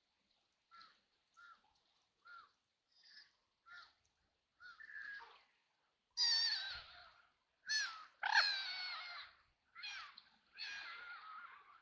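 Ducks quacking: first a string of short, soft calls, then from about halfway through louder, harsher, drawn-out quacks.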